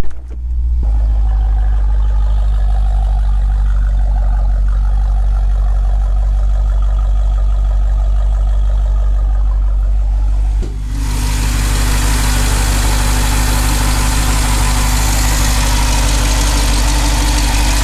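Jeep Grand Cherokee SRT's 6.4-litre 392 HEMI V8 idling steadily, freshly started after an oil change. It is heard first from inside the cabin, then from outside by the tailpipes and open hood from about eleven seconds in, where it turns brighter and more hissy.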